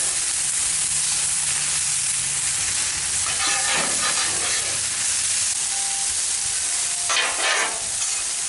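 Stir-fry noodles sizzling on a hot Blackstone flat-top griddle, a steady frying hiss, with louder rough patches about halfway through and near the end as they are stirred.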